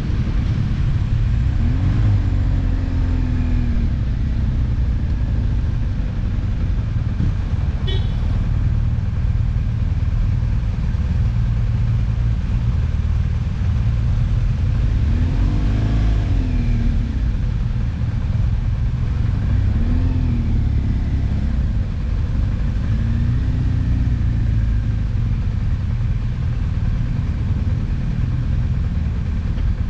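Riding on a BMW R1200 GS Adventure: its boxer-twin engine runs under steady wind and road rumble, and the engine note rises and falls a few times.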